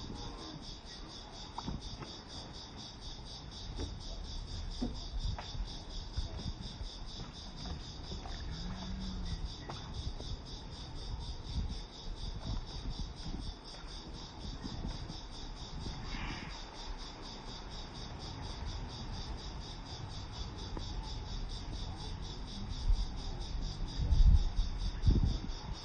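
Insects chirping in a steady, fast-pulsing chorus, over a low rumble, with a few louder low thumps near the end.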